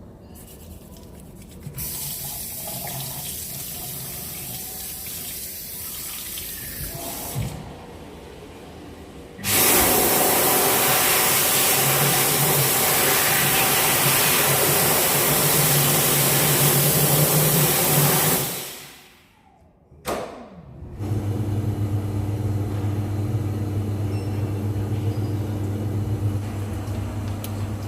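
Public washroom water noise: a toilet flushing and taps running, with rushing water for several seconds. About ten seconds in, a much louder, even rushing starts, lasts about nine seconds and cuts off. After a brief break there is a steady low hum.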